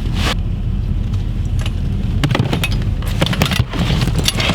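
Car engine running and drive noise heard from inside the cabin, a steady low rumble with clicks and rattles over it.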